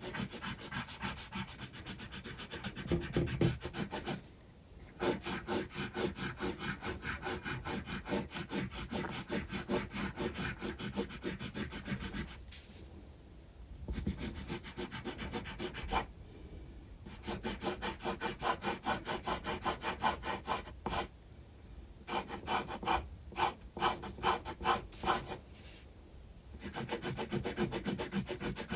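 Graphite pencil shading on sketchbook paper: quick, even back-and-forth scratching strokes, stopping for a second or so several times before starting again.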